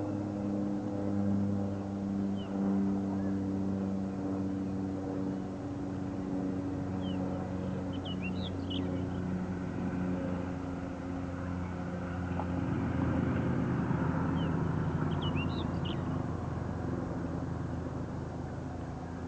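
An engine running steadily with a low hum throughout. Two short clusters of brief high bird calls come through it, about eight seconds in and again about fifteen seconds in.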